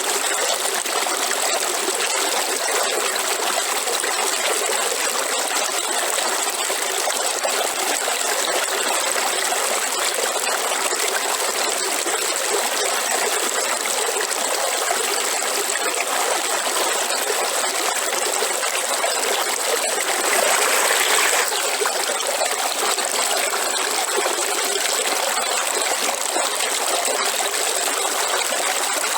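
River water flowing and trickling steadily, with a thin steady high-pitched note above it and a brief louder gush about twenty seconds in.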